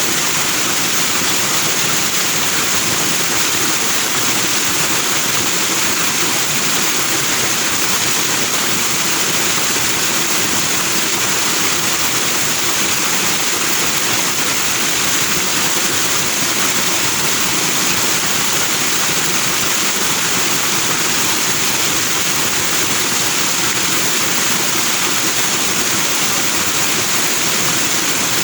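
Forest stream running over rocks, a steady, unbroken rush of white water.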